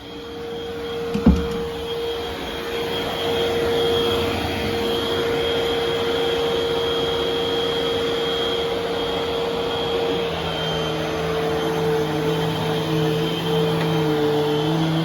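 Eureka vacuum cleaner switched on with a knock about a second in, its motor spinning up over the next few seconds to a steady run with a high whine. Its tone shifts and a lower hum joins about ten seconds in.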